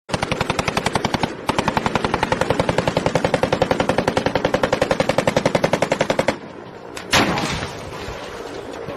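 Rapid automatic gunfire, about a dozen shots a second, with a brief break and then about five more seconds of firing. It stops, and about a second later comes a single loud bang that trails off into a hiss.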